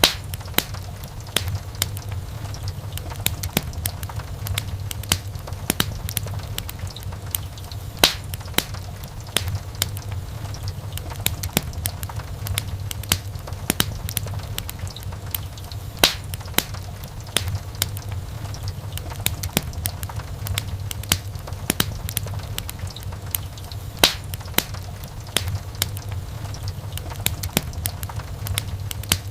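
Wood fire in a fireplace crackling, with frequent sharp pops and snaps over a steady low rumble of the flames; a few louder pops stand out, about every eight seconds.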